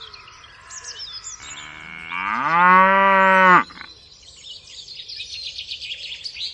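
A cow moos once, a single call about two seconds long that rises in pitch, holds, then cuts off suddenly. Faint bird chirps are heard before and after it.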